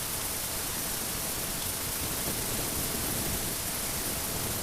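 Steady rush of wind and road noise while cruising on a motorcycle at highway speed, with no engine note standing out.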